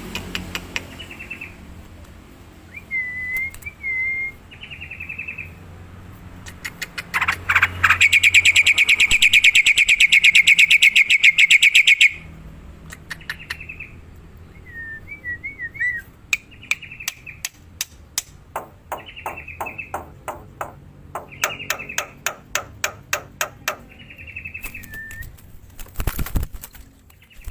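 Black-winged myna (jalak putih) calling: short chirps and whistled notes, a loud fast harsh rattle lasting about four seconds, then runs of rapid clicks mixed with more chirps.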